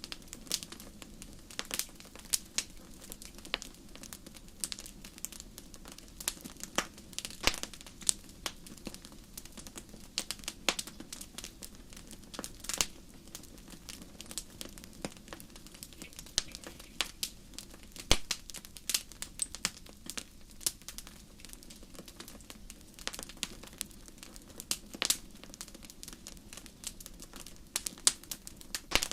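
Wood fire in a fireplace crackling, with irregular sharp pops and snaps, several a second, the loudest a few seconds apart, over a faint steady low hum.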